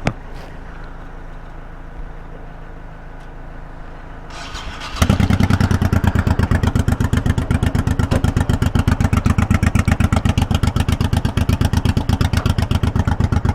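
A motorcycle engine starts about five seconds in and settles into a loud, steady idle with a rapid even pulse.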